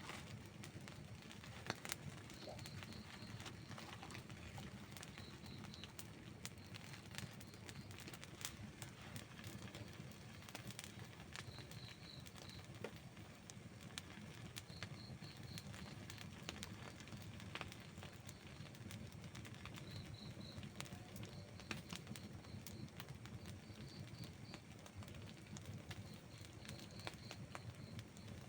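Wood burning in an outdoor campfire, crackling with scattered sharp pops over a low steady rush, the strongest pop about two seconds in. Short high chirps in quick groups of three or four sound every few seconds.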